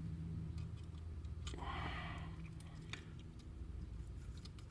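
Small electric motor in the tender drive of a Mainline HO-scale model locomotive, running on battery power with a faint steady hum. About a second and a half in there is a brief, rougher whirr with a few light clicks. The motor has no oil or grease in it and is running very dry.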